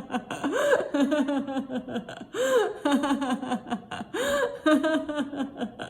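A woman laughing on purpose in a laughter-yoga juggling exercise. Three quick cycles come about two seconds apart, each a swooping 'ho, ha, he' call followed by a run of short, falling 'ha-ha' laughs.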